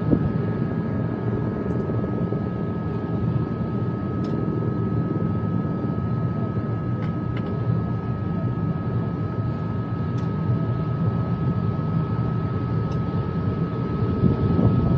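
Steady machinery drone, a low rumble with a constant high-pitched whine over it and a few faint ticks, the kind of noise aircraft or hangar equipment makes while running.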